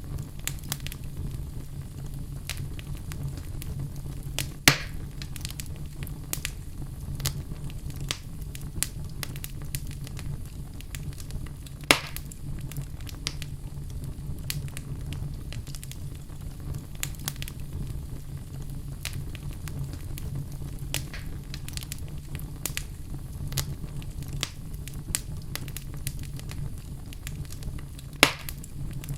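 Fire burning in a fireplace: a steady low rumble with frequent small crackles and three louder pops, at about five seconds, twelve seconds and near the end.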